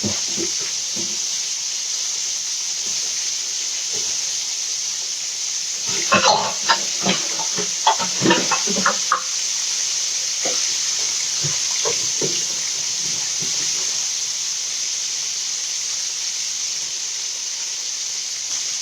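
Tap water running at a kitchen sink as hands are washed, over the steady hiss of chicken frying in oil. A quick run of clinks and knocks comes about six to nine seconds in.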